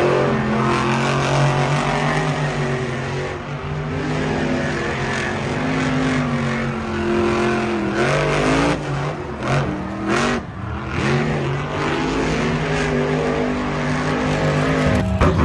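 Motor vehicle engines revving, their pitch rising and falling again and again, with a few short knocks about halfway through.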